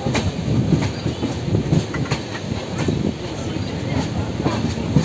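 Train rolling through the station, its wheels clattering over rail joints in a steady low rumble with irregular sharp clicks.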